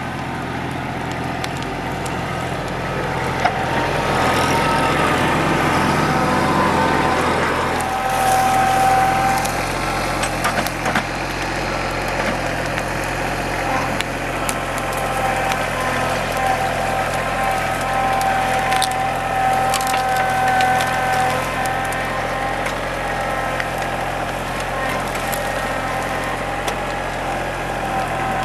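TYM compact tractor's diesel engine running steadily under load, with wood creaking, cracking and snapping as timber is pushed and crushed into the pile.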